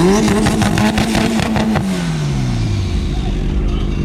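A car engine revved: held at high revs for about the first two seconds with a rapid stutter, then the revs fall away and settle back to idle.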